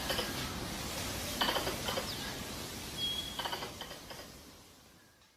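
Squirrel calls played as a mating-season lure: short bursts of rapid chattering clicks repeated every second or two, with a brief high whistle about three seconds in. The sound fades out near the end.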